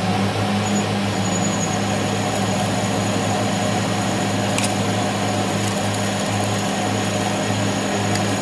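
A machine running steadily with a constant low hum and a thin high whine, with one sharp click about four and a half seconds in.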